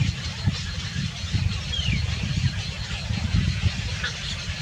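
A steady low rumble, with a few short, high chirps that fall in pitch, spaced about two seconds apart, from a small bird.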